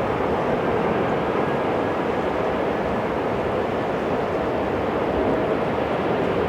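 Jet airliner engines running with a steady, even noise and a faint whine in it.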